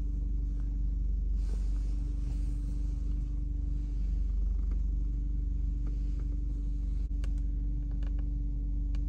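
Steady low rumble and hum of a car idling, heard inside the cabin, with a couple of faint clicks.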